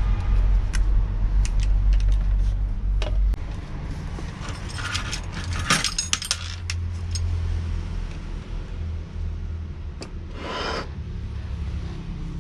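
Small metal parts and tools clicking and clinking as they are handled during assembly, with a low rumble over the first few seconds that then drops away.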